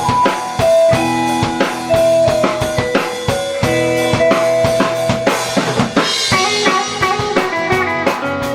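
Live rock band playing: electric guitar and bass over a drum kit with a busy beat, an instrumental passage with no singing.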